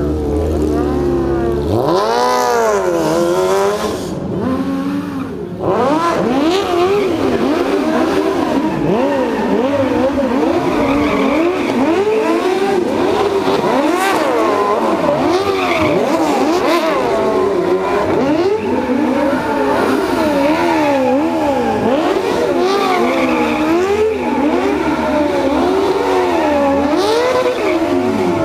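Cross car engines revving up and down over and over, their pitch rising and falling every second or so, with a brief lull about four to five seconds in.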